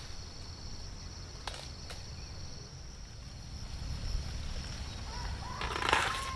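Steady high-pitched insect chirring, with a low rumble beneath and a couple of sharp clicks. Near the end comes a louder crackling rustle, and a long held tone begins.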